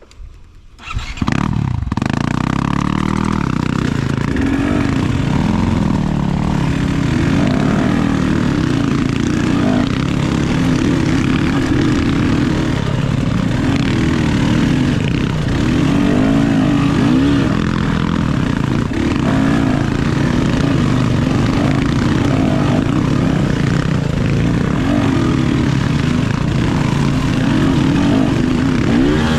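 Enduro dirt bike engine running under throttle, revving up and down as it rides over rough ground; it comes in loud about a second in.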